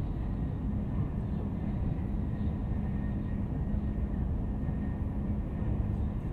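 Steady low rumble of a train running at speed, with a constant low hum through it.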